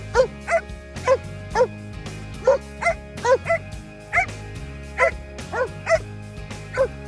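A dog barking over and over, about a dozen short, sharp barks at an uneven pace, over background music.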